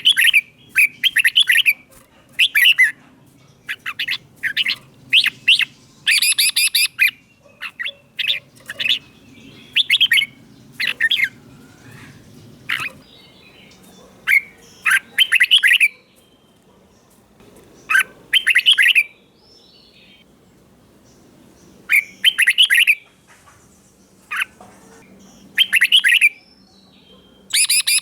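Red-whiskered bulbul singing: short, bubbly whistled phrases repeated every second or two, with a few longer pauses in between.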